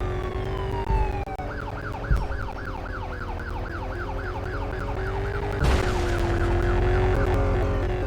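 Electronic toy police siren: a falling wail in the first second and a half, then a fast yelp rising and falling about three times a second. A brief rushing noise cuts in about two-thirds of the way through.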